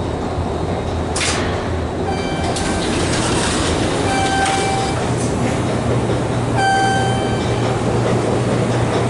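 Steady low mechanical rumble and hum of subway station machinery, with a sharp click about a second in and three short electronic beeps roughly two seconds apart.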